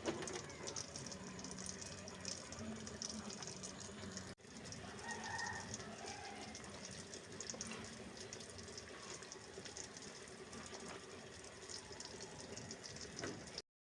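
Faint sizzle and crackle of pointed gourds frying in oil in a pan, cutting off near the end.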